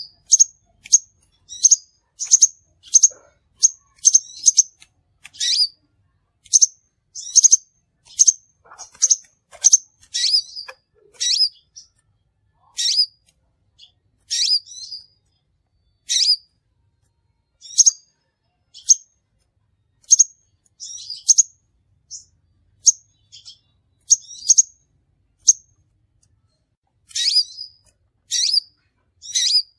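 Crimson sunbird (sepah raja) calling: a long series of short, sharp, high-pitched chirps, about one or two a second with brief pauses between runs. This is a lure recording used to attract the species.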